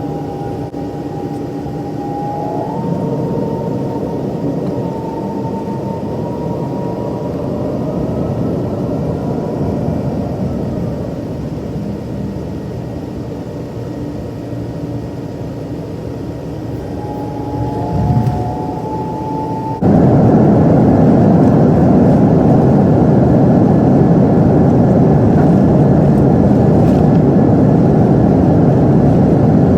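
Jet airliner engines heard from inside the passenger cabin: a steady hum with a high whine that steps up in pitch early on. About two-thirds of the way through, the noise jumps suddenly to a much louder, steady rush.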